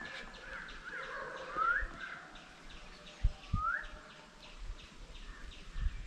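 A bird calling with a few short, rising whistled notes, over a faint even ticking about four times a second. Two brief low thumps come a little past the middle.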